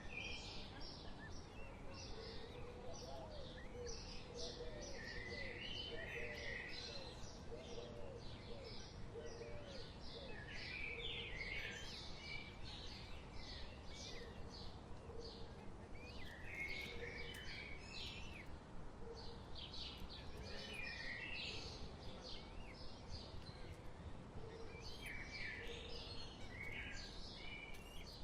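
Wild birds chirping and calling in a continuous dense chorus, with fainter lower calls, over a steady low background noise.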